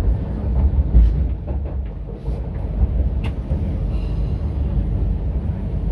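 MTR Kwun Tong Line C-train heard from inside the car as it pulls out of a station: a steady low rumble of wheels and motors, with a few clicks from the running gear.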